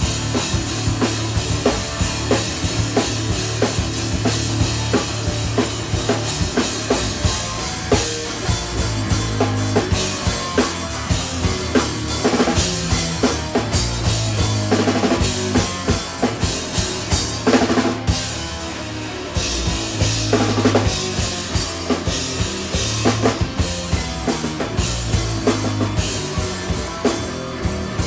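Three-piece instrumental band playing live, the drum kit to the fore with steady kick and snare hits over sustained low instruments.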